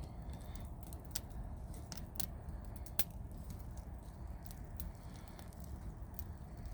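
Wood campfire crackling: scattered sharp pops and snaps, the loudest about three seconds in, over a steady low rushing noise.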